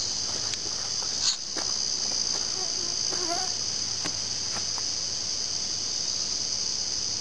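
Steady, high-pitched chorus of insects, with one short sharp sound just over a second in and faint brief wavering calls around three seconds in.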